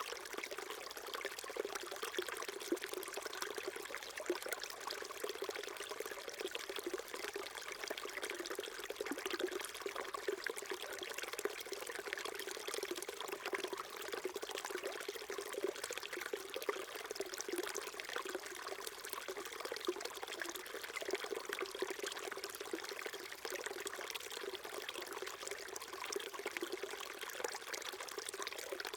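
Small shallow stream babbling and trickling over stones, a steady splashing flow with a gurgling undertone.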